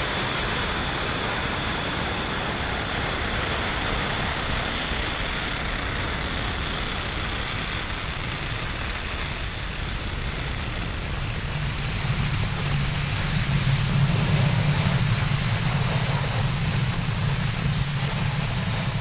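Falcon 9 rocket in ascent, its nine Merlin 1D first-stage engines making a steady, dense rushing noise. A deeper low rumble grows stronger about twelve seconds in.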